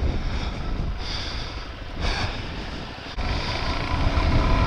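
Suzuki DR-Z400 single-cylinder dual-sport motorcycle running at low speed on a dirt trail, with wind rumbling on the bike-mounted microphone. About three seconds in the sound drops out for an instant and comes back louder.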